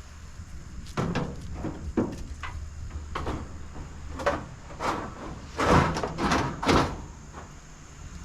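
Pieces of scrap metal clanking and scraping as they are loaded into a pickup truck bed: a run of about eight separate bangs, the loudest three close together near the end.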